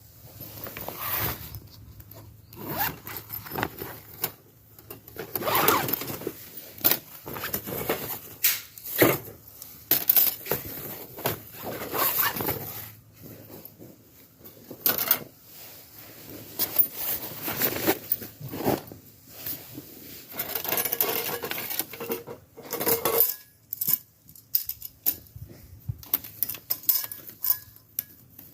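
Irregular clicks, short scrapes and light rattles of small hard objects being handled, coming every second or so with brief pauses between.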